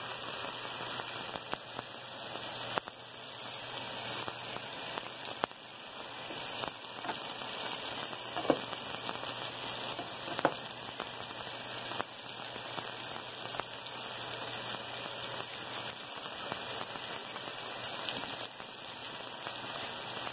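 Chopped tomatoes and green chillies frying in oil in a nonstick pan: a steady sizzle, broken by a few sharp pops and spits.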